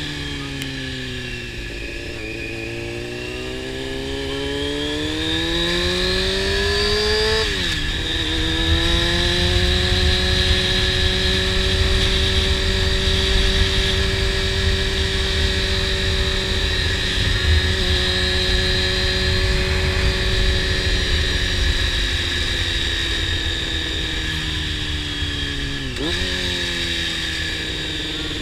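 Honda CBR600 inline-four sport bike with a slip-on exhaust riding along: the engine eases off, pulls up through the revs, shifts up about a third of the way in, holds a steady cruise, then shifts again near the end. Wind rumbles on the helmet-mounted microphone throughout.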